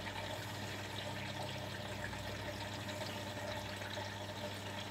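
Beko WTB740E1W washing machine running mid-wash: a steady low hum with water moving in the drum.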